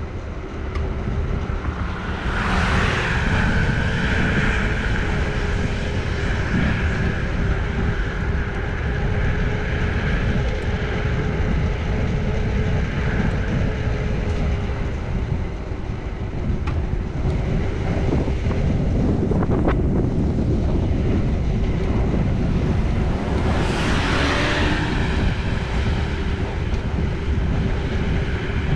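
Wind rumbling on the microphone of a camera riding on a moving bicycle. Two passing vehicles swell up and fade, one a couple of seconds in and one near the end.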